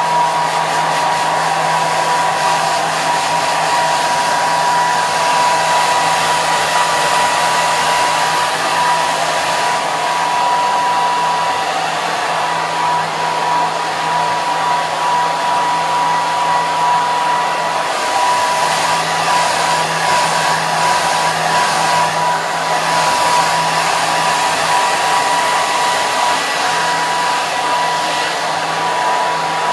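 Hair dryer running steadily: a continuous airflow rush over its motor's whine, with a constant high tone and a low hum, unchanging throughout.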